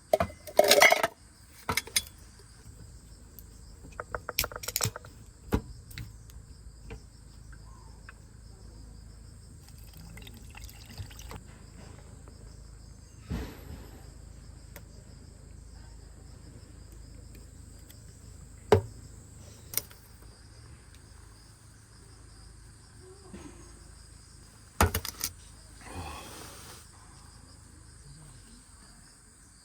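Crickets chirring steadily in the background, with scattered sharp knocks and clatter from handling things, the loudest in the first second and again about 19 and 25 seconds in.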